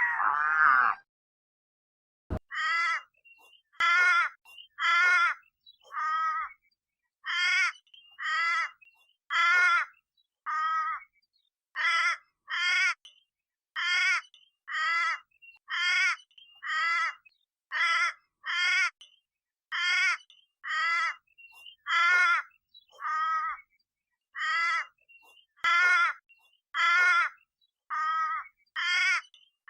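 An animal calling over and over, about once a second, each call short with a wavering pitch.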